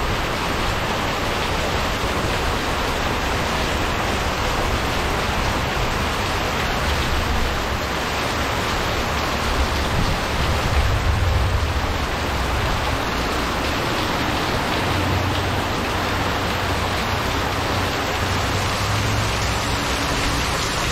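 Heavy rain pouring down in a steady, dense downpour, driven sideways by the wind of a summer thunderstorm.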